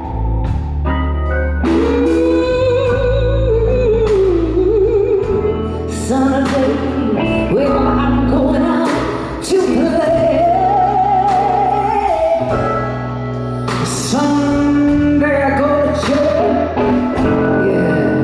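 Live blues band playing a slow blues, with a wavering lead melody full of bends and vibrato over a steady bass line and drums.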